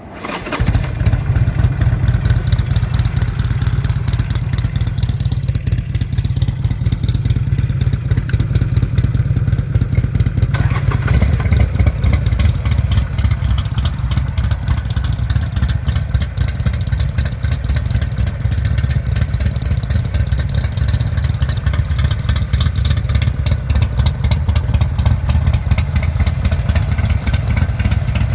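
Buell XB-series air-cooled V-twin motorcycle engine running steadily through its exhaust, its sound turning deeper and heavier about ten seconds in.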